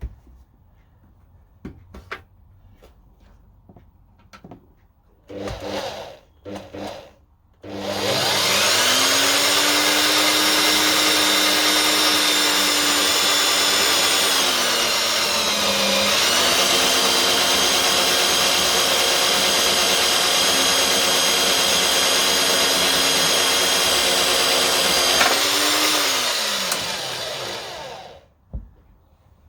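A small workshop machine's electric motor starts about eight seconds in, its whine rising as it spins up, then runs steadily; midway its pitch sags for a moment and recovers, and near the end it winds down and stops. A few light clicks and two short bursts come before it starts.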